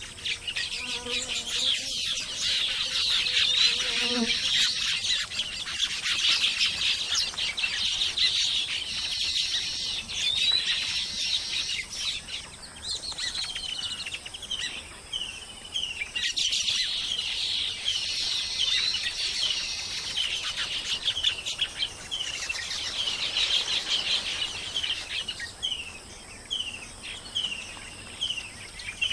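Baya weavers chattering, a dense, fast twittering from several birds. Runs of short, repeated down-slurred notes stand out at times.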